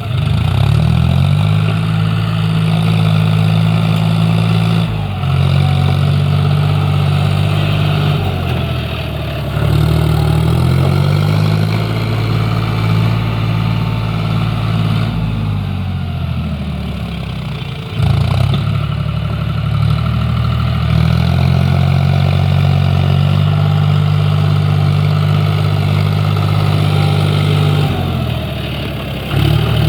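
Tractor engine running steadily, its pitch jumping up sharply several times and sagging slowly in between as the revs and load change.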